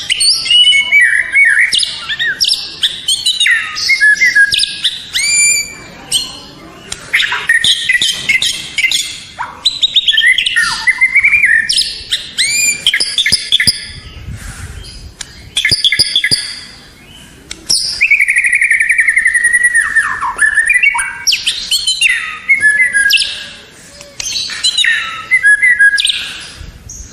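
White-rumped shama (murai batu) singing: a long run of loud, varied whistled phrases with rising and falling glides and quick trills, broken by short pauses.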